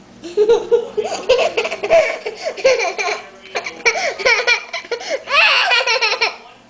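A young child laughing in quick repeated bursts, rising into a longer, high-pitched squeal of laughter near the end.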